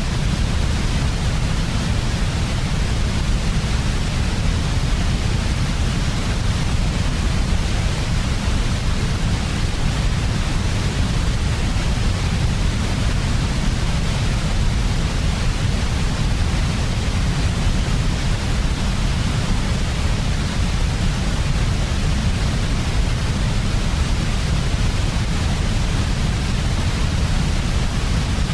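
Steady generated white noise for sleep, heaviest in a deep low rumble with a softer hiss above it, unchanging throughout.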